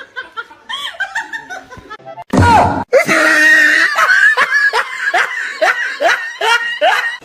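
Laughter with music playing. A loud burst comes a little past two seconds in, followed by a run of repeated falling calls, about two a second.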